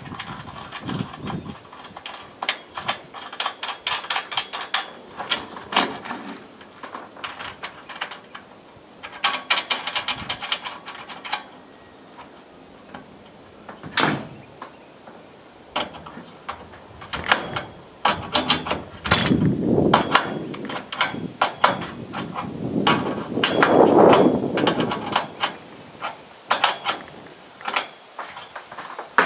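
Irregular clicks and knocks with stretches of scraping, the sound of parts and tools being handled during hands-on installation work, with one louder knock about halfway through.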